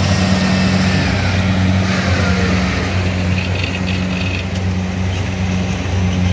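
Diesel engine of a rice-harvesting machine running steadily with a low, even drone, and a brief light rattle about three seconds in.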